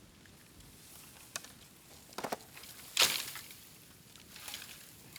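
Burning bamboo crackling in a bonfire, with scattered pops and one sharp, loud crack about three seconds in.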